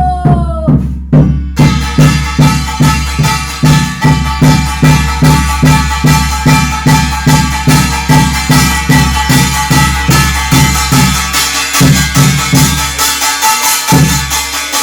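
Korean shamanic ritual (gut) music: a fast, even drum beat with jingling metal percussion over a steady ringing tone. A falling held note ends about a second in.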